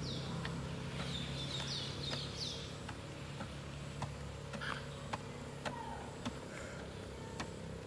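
A bird calls a quick run of about five high, descending whistled notes in the first three seconds. Sharp ticks repeat roughly every half second over a low steady hum.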